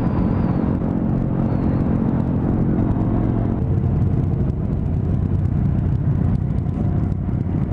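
Yamaha YZF600R inline-four and the sport bikes around it running at low speed, the steady engine tone changing about three and a half seconds in as the bikes come to a stop and sit idling.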